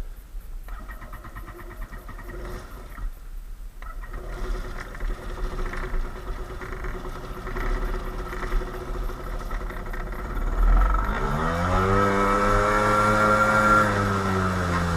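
Kawasaki JS300 jet ski engine running quietly at first, then revving up about eleven seconds in and holding a steady higher pitch.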